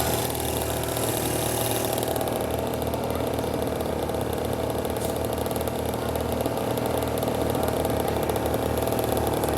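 Small dirt bike engine running steadily at low speed, near idle.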